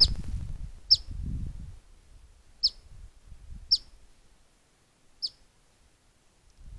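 Black phoebe giving sharp chip calls: five short, high notes that drop in pitch, spaced a second or two apart. A low rumble sits under the first two calls.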